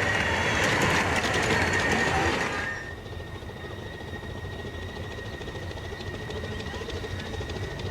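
A 15-inch gauge miniature train running on the track, with a quick clatter of clicks from the wheels. About two and a half seconds in, the sound drops abruptly to a quieter steady rumble, with a thin high whine held throughout.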